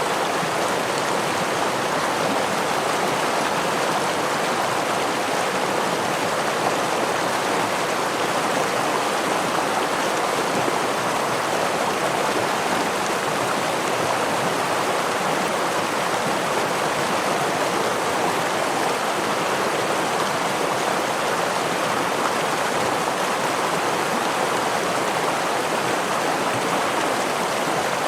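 Flowing stream water rushing steadily over rocks, an even wash of water noise with no breaks or changes.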